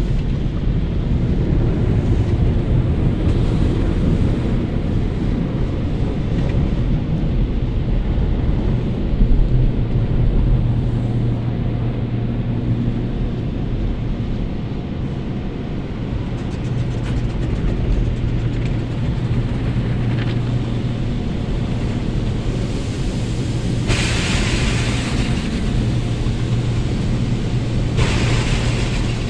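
Automated car wash heard from inside the car: a steady low rumble and hum of the wash machinery with water spraying and drumming on the body. Twice near the end, a louder hiss of spray jets hits the car.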